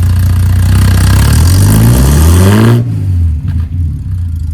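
Ford AU Falcon's 4.0-litre inline-six idling through a new custom muffler and side-exit exhaust, then revved once: the pitch climbs for about a second and a half, the throttle snaps shut near the three-second mark, and the engine drops back to idle.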